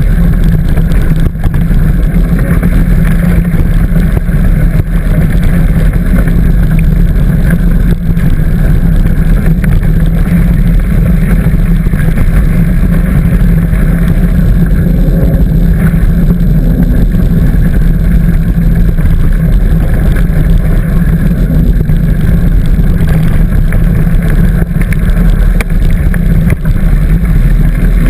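Loud, steady rumble of wind buffeting the microphone of a camera carried on a moving bike, mixed with the general rattle of riding along a trail.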